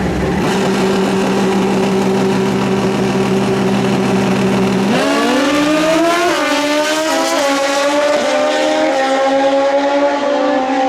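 Drag-racing motorcycle engine held at steady revs on the line, then launching about five seconds in and accelerating hard through several quick upshifts, the pitch climbing and dropping back at each shift.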